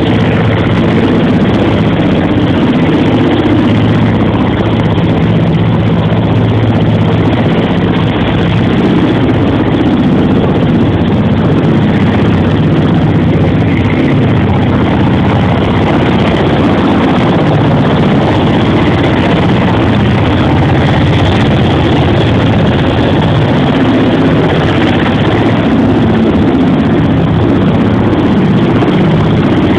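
Helicopter running, a loud steady drone of turbine engines and rotor with several low steady tones.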